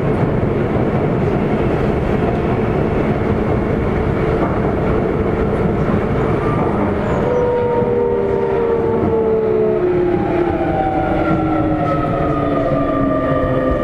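Sotetsu 8000 series electric train running, with Hitachi IGBT-VVVF inverter and traction-motor whine. From about halfway, several whining tones fall steadily in pitch over the running rumble, the sound of the train slowing.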